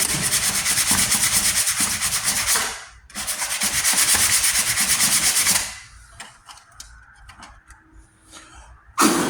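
Sandpaper rubbed rapidly back and forth over a primed, filled steel patch on a truck tailgate, in two runs of even strokes with a short break between them. The sanding stops about two-thirds of the way in, leaving light clicks, and a sharp knock comes near the end.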